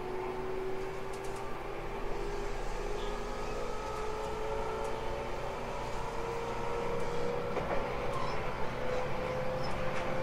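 811 series electric train running, its traction motor whine rising slowly and steadily in pitch as the train gathers speed, over a steady rumble of wheels on rail.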